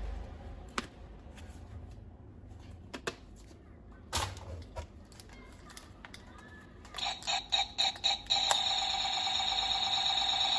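Scattered sharp plastic clicks and knocks, as of toy-gun parts being handled. About seven seconds in, a quick run of clicks comes, then a steady electronic tone.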